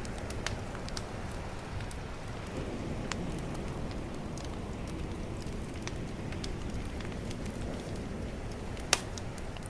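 Bonfire crackling, with scattered sharp pops and one much louder pop near the end, over a steady low wash of calm ocean waves.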